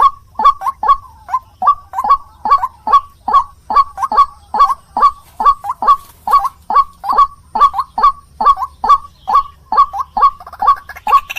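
White-breasted waterhen (ruak-ruak) calling: a fast, unbroken run of loud, honking notes, about three a second, many of them in pairs.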